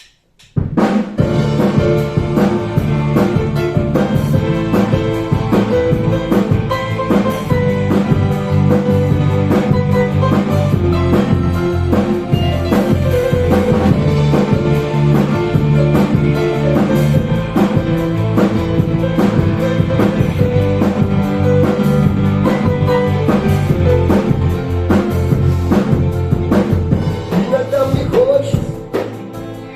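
Instrumental intro of a band song with a drum kit keeping a steady beat under sustained chords and bass; the music starts abruptly about half a second in.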